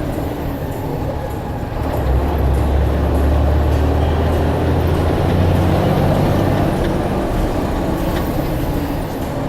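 Blue Bird All American bus running, a steady low engine rumble with road noise that grows louder about two seconds in and eases off near the end.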